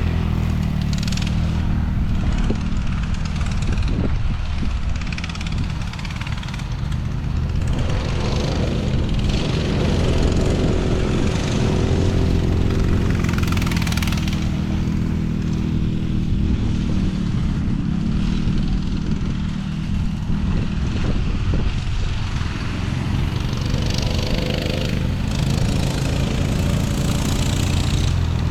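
Small off-road engine (dirt bike or ATV) running steadily while being ridden, its pitch drifting slightly up and down with the throttle, with a noisy rush over it.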